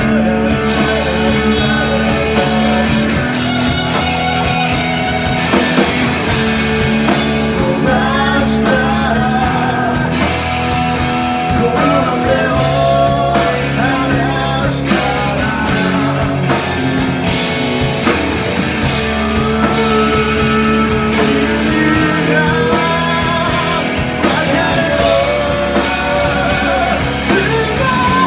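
Live rock band playing loud: electric guitars, bass and drums, with a male lead singer.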